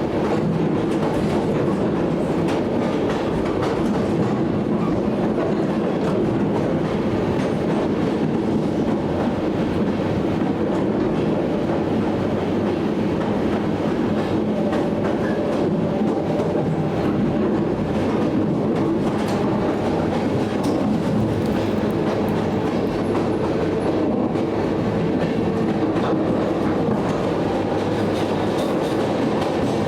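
ED9M electric commuter train under way, heard from inside the car: a steady running rumble of wheels on rail, with faint clicks as the wheels pass over rail joints.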